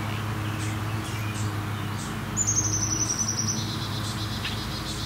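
Outdoor birdsong: scattered high chirps, a quick run of high notes about two and a half seconds in, then a fast repeated trill to the end. A steady low hum runs underneath.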